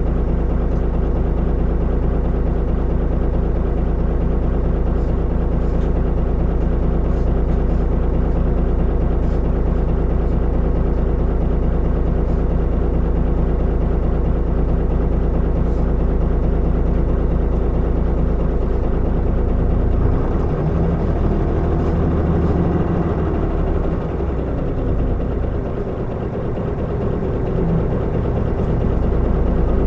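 Mitsubishi Fuso Aerostar city bus's diesel engine running while under way, a steady engine note. About twenty seconds in the note changes and eases for a few seconds, then picks up again near the end.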